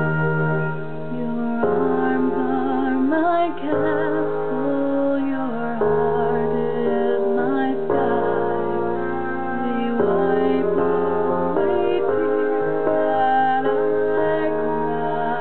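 A woman singing a slow ballad over a piano backing track, holding long notes with vibrato while the chords change every couple of seconds.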